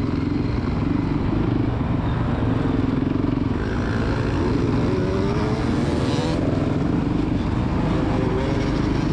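Small motocross bike engine running and revving, its pitch climbing between about three and six seconds in as the throttle is opened.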